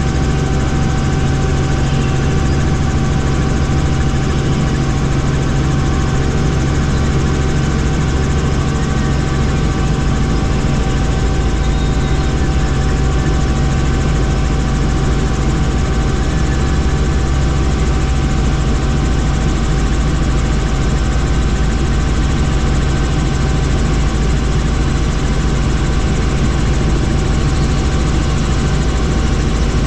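Helicopter in flight: steady turbine and rotor noise with a constant hum and whine that hold unchanged throughout.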